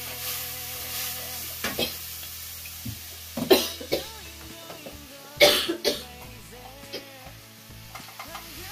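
Fried noodles sizzling in a pan as they are stirred, with a few loud, sharp noises, the loudest about three and a half and five and a half seconds in.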